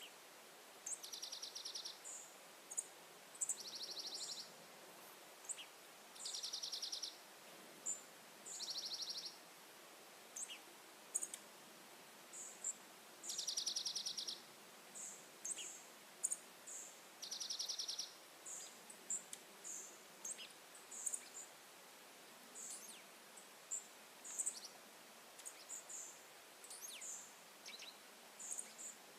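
Wild birds calling: a rapid trill about a second long repeated every few seconds, among many short, high chirps from more than one bird.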